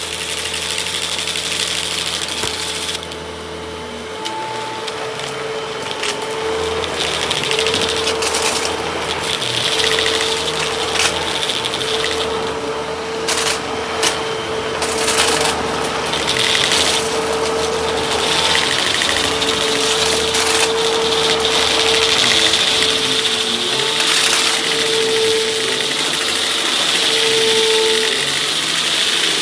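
Hoover vacuum cleaner running with a steady motor whine and airflow noise, with a few sharp clicks partway through.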